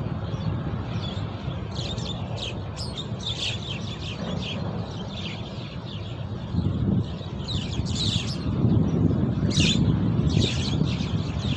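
Birds chirping in clusters of short, quick, down-slurred notes, over a steady low rumble of wind on the microphone.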